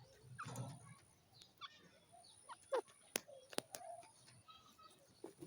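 Soft, short calls of a teetar (grey francolin): scattered downward-sliding chirps, with two sharp clicks about half a second apart near the middle.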